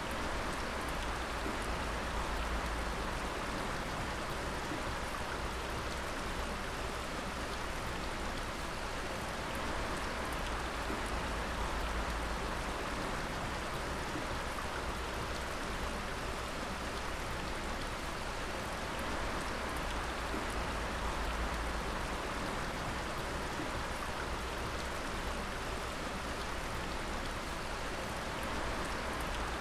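Water dripping steadily in a dense, even patter of drops, with a low rumble underneath.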